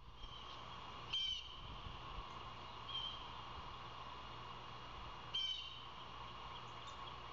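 A bird calling: short, high calls a few times, loudest about a second in and again about five seconds in, over a steady hum.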